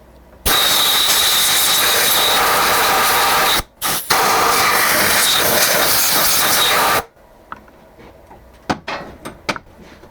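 Compressed-air blow gun blasting chips out of a freshly drilled hole in a steel block: two long, loud hisses, the first about three seconds, then a brief stop and a second of about three seconds, followed by light clicks and taps.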